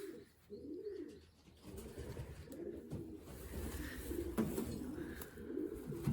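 Racing pigeons cooing in the loft: low rising-and-falling coos repeated over and over.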